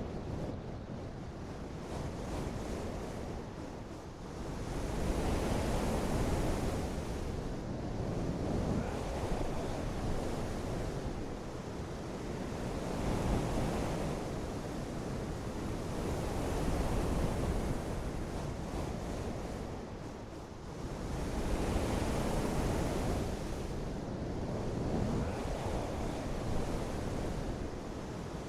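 Continuous rushing water noise, heaviest in the low and middle range, swelling and easing every few seconds.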